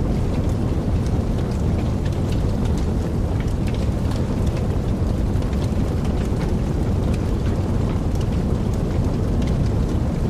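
Wood fire burning in a fireplace: a steady low rumble of the flames with many small, sharp crackles and pops scattered irregularly throughout.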